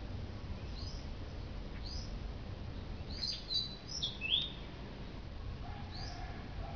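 Birds chirping: single short high chirps about once a second, with a quick burst of several chirps in the middle, over a steady low rumble.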